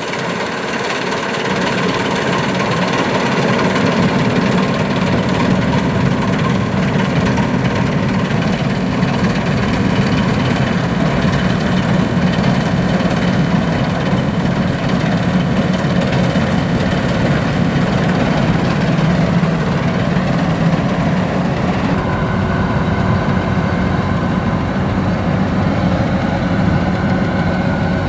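Kubota DC-93 combine harvester's four-cylinder turbocharged diesel running steadily under the machine's working noise. Near the end the sound changes, with a higher whine coming in.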